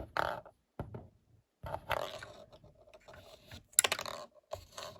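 LEGO plastic parts clicking and scraping as a minifigure is pushed and fitted into a LEGO ice cream truck, in irregular bursts with a quick run of sharp clicks about four seconds in.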